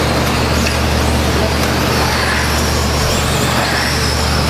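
Radio-controlled stock-class trucks racing on the track: a steady wash of motor whine and tyre noise, with a faint high whine that rises and falls as the trucks speed up and slow down.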